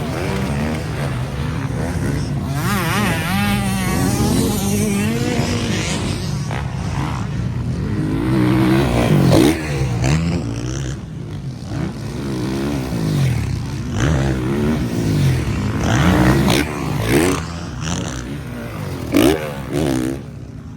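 Several MX1-class motocross bikes racing, their engines revving up and down through the gears, with overlapping rising and falling engine notes and louder peaks as bikes pass close, about nine seconds in, near the end, and a few seconds before the end.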